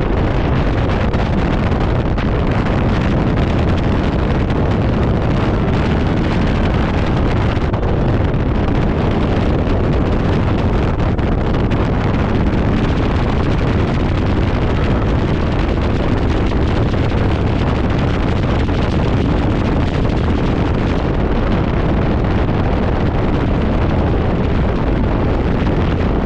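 Heavy, steady wind buffeting on a GoPro action camera's microphone as the sky glider rushes along its cable at speed.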